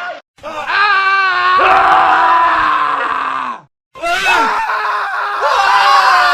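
Men screaming in a montage of separate clips: one long scream with a wavering pitch, cut off abruptly about three and a half seconds in, then after a moment of silence another man's scream starts.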